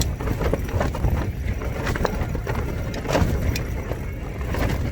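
Gale-force wind battering a tent, heard from inside: a heavy, continuous low rumble of gusts buffeting the shelter, with brief sharp cracks from the fabric.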